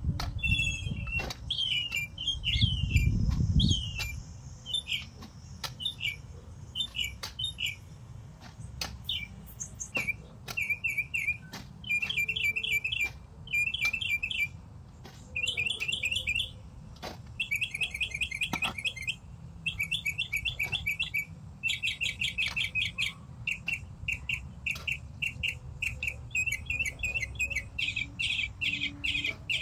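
Small songbirds chirping and trilling busily and without a break. Scattered sharp knocks come through, fitting a shovel working soil, with a brief low rumble about three seconds in.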